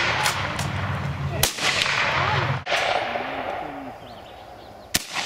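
Gunshots from the firing line: a few sharp cracks spaced a second or more apart, the loudest about a second and a half in and another near the end.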